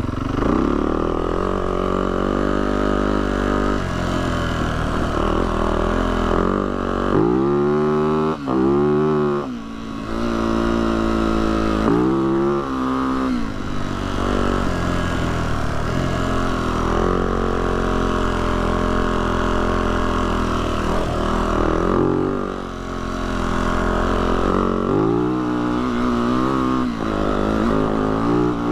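Yamaha YZ450F dirt bike's single-cylinder four-stroke engine running under way on a trail, its pitch rising and falling as the throttle is opened and closed. The revs climb sharply several times, with brief dips when the throttle is rolled off.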